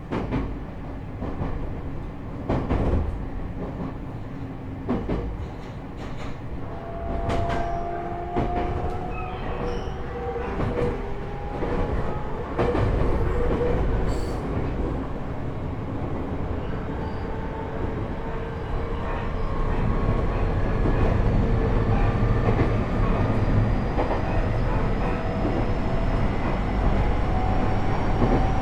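Running sound inside a JR East E127-series electric train car with a Toyo GTO-VVVF drive: rumble with rail-joint clicks, then traction-motor and gear whine that slowly rises in pitch as the train picks up speed, growing louder in the last third. This car, KuMoHa E127-11, is known as an abnormal-noise car: its gear whine carries an extra note a semitone above the usual minor-seventh pair.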